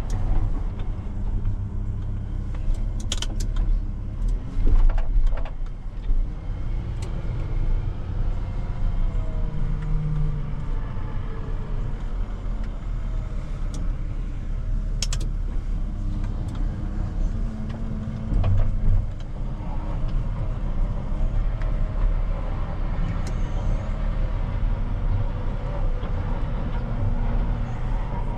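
Loader's diesel engine running under varying load, its pitch rising and falling as it works, with a few sharp metallic clanks about three, five and fifteen seconds in.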